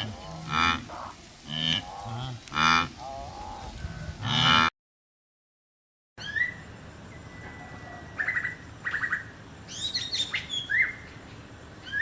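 A series of short, wavering animal calls, several a second apart, that stop abruptly about four and a half seconds in. After about a second and a half of silence, birds chirp with quick rising notes and short trills.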